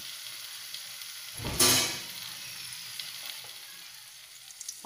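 Pazham niravu, a pathiri-wrapped banana snack, sizzling steadily in hot oil in a pan as it fries crisp. A brief, louder burst of noise comes about a second and a half in.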